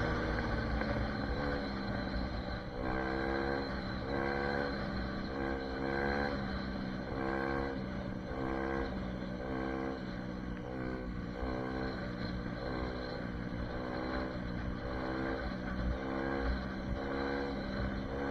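SSR 150 dirt bike engine running, revved up and let back down again and again, about once a second.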